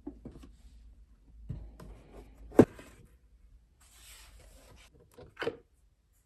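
Laptop parts being handled during disassembly: small clicks and taps of plastic and hardware, one sharp loud click about two and a half seconds in, a brief scraping rustle around four seconds, and a knock near the end.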